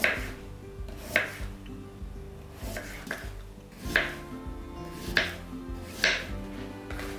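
Knife chopping on a cutting board, five separate unevenly spaced strokes, over soft background music.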